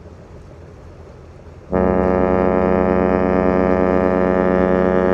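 Oasis-class cruise ship's horn sounding one long, steady blast. It starts suddenly about two seconds in, after a quieter stretch, and is loud.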